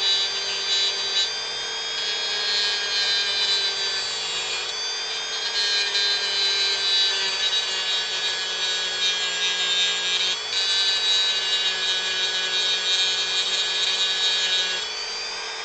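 Dremel rotary tool running steadily with a high whine, its bit grinding and carving into wood; the cutting noise rises and falls as the bit is worked over the piece.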